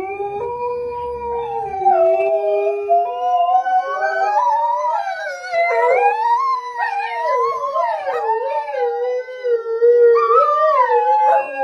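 A dog howling in one long, drawn-out howl whose pitch rises and falls.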